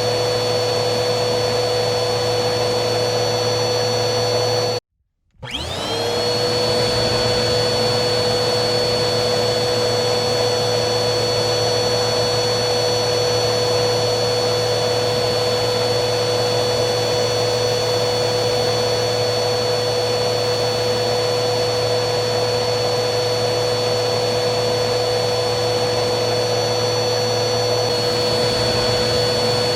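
Vacuum cleaner motor running with a steady whine over its airflow hiss. About five seconds in, the sound cuts out for half a second, then the motor whine rises back up to speed.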